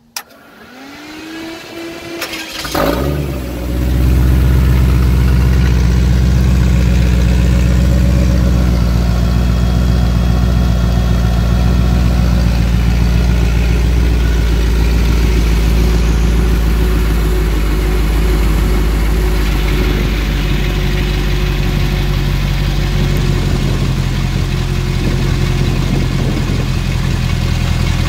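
A fuel-injected 454 big-block V8 in an off-road buggy is started. A click is followed by a rising whine, the engine catches about three seconds in, and it then settles into a steady idle around 640 rpm.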